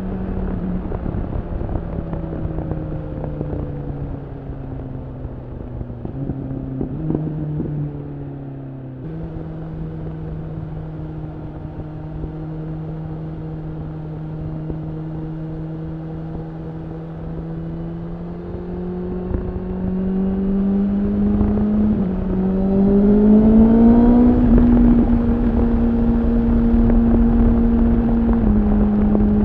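BMW S1000RR's inline-four engine through an Akrapovič slip-on exhaust, under way. The engine note sinks as the throttle is rolled off, holds steady at a cruise, then rises and gets louder as it accelerates from about twenty seconds in, with a short dip partway through the climb. It settles at a higher steady note near the end.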